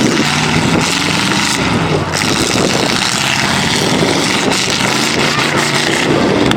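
Demolition derby truck engines running loudly, with several steady engine tones over a dense din.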